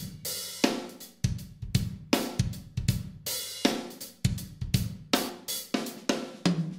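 Intro music: a drum-kit beat with cymbals, hi-hat and snare, the strikes coming about twice a second over steady low notes.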